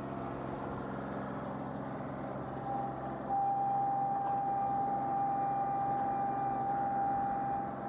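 John Deere 2038R compact tractor's three-cylinder diesel engine running steadily while digging. About three seconds in, the sound gets louder and a steady high whine sets in and holds.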